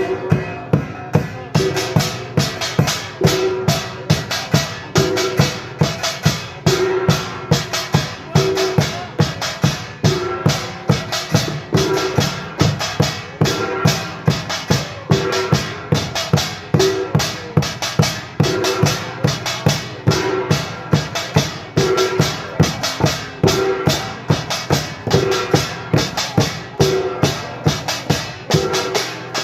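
Pungmul band playing together: Korean drums and small gongs struck hard in a fast, steady, driving rhythm, with a ringing metallic tone recurring through it.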